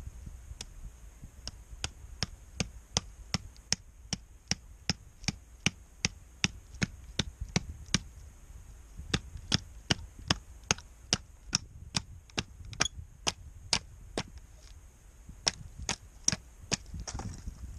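Footsteps at a steady walking pace, each a sharp short step about two to three times a second, pausing briefly twice, over a faint steady high hiss.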